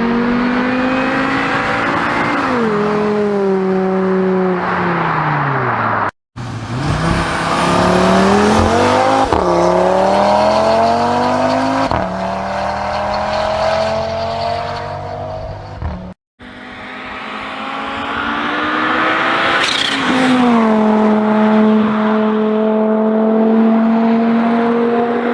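Inline-four or inline-five car engine under hard acceleration, its pitch climbing and then dropping sharply at each gear change. The sound is three separate passages cut together, and the last one settles into a steady high-revving drone.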